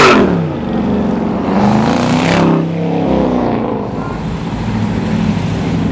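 A Dodge Charger's engine and exhaust as the car drives close past, loudest at the start, with the pitch falling as it moves away. A second car passes about two seconds in, and then a steady engine note carries on as more cars roll by.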